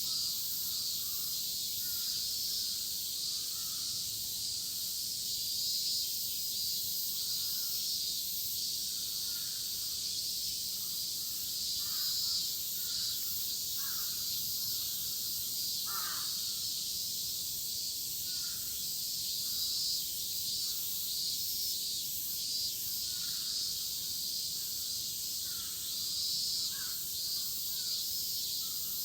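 Dense chorus of cicadas, a steady high-pitched buzz, with birds calling in short scattered calls over it.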